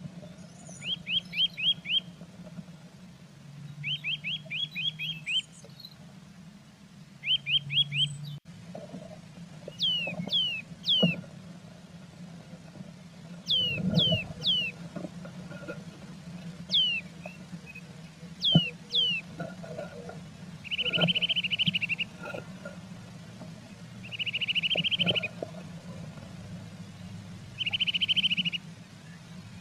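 Small songbird singing in short phrases: quick runs of notes, then a few falling whistled notes, then three buzzy trills about a second long each. Soft low knocks and rustles from the incubating blue tit shifting in the nest box.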